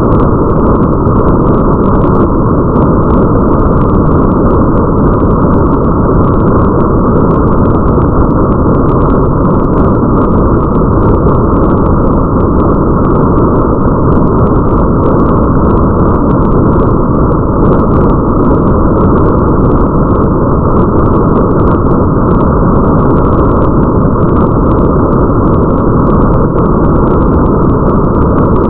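Steady, loud, muffled rain ambience: a dense even wash with no treble, like rain heard through a window, with faint scattered ticks of drops on top.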